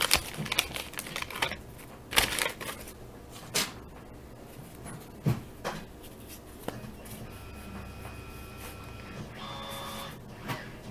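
Cardboard baseball cards from a freshly opened 1983 Topps wax pack being handled and flipped through one by one: a scattering of soft slaps and rustles. Faint steady tones sound in the background in the second half.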